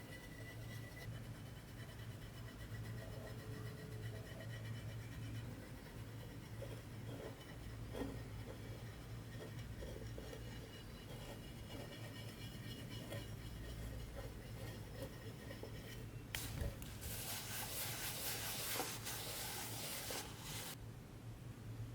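Light rubbing and scratching on a brass box as it is worked by hand, with small taps, over a steady low hum. Near the end a hiss lasts about four seconds, then stops.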